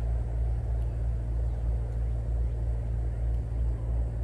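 Steady low rumble with a fainter hiss above it, with no distinct events.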